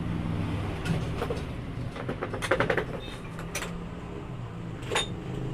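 Sharp metallic clicks and knocks from work on a motorcycle shock absorber, several in quick succession about two and a half seconds in, over a steady low hum.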